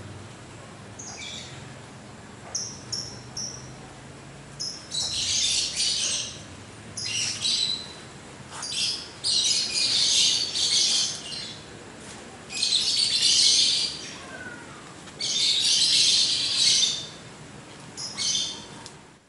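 Small birds chirping and chattering: short high chirps at first, then bursts of busy chatter about a second long, several times over.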